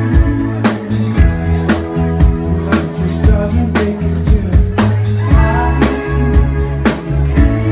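Live band playing a song: a drum kit keeps a steady beat over guitar and held low notes.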